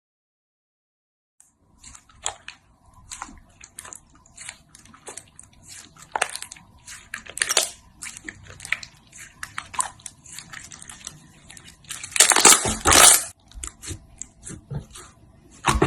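Slime being pressed and squeezed by hand, giving a dense run of crackles and pops, loudest in a burst near the end, after a silent first second and a half.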